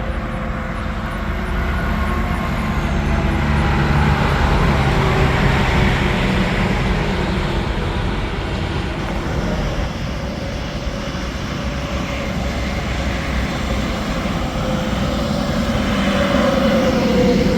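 Interstate highway traffic: trucks and cars passing at speed, tyre and engine noise swelling as each goes by, with a pitch falling as one passes near the end.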